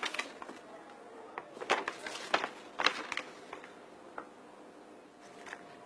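A handful of light knocks and taps at irregular intervals, bunched between about one and three seconds in, with a last one a little after four seconds.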